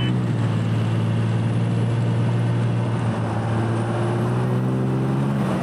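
Cummins diesel engine running steadily with a deep, even drone. Its pitch climbs slightly in the second half.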